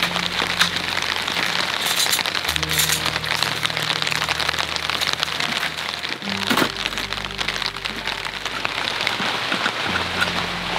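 Steady rain pattering with many small drop clicks, under soft background music of slow, held low chords that change a few seconds apart.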